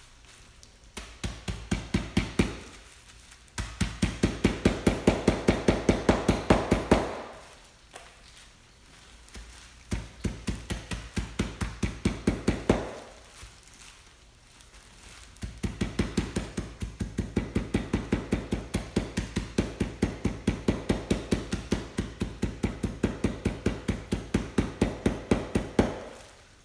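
Rapid, steady pounding in four runs of about five strikes a second, separated by short pauses: pretzels being smashed in a bag into breadcrumbs.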